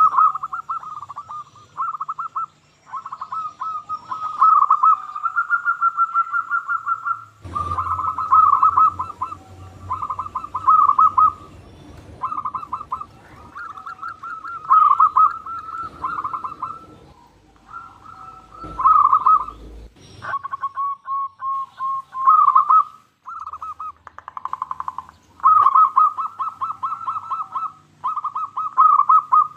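Zebra dove (perkutut) cooing, phrase after phrase of rapid rolling coo notes near one pitch, with short gaps between phrases. A low rumble sits beneath it in the middle part.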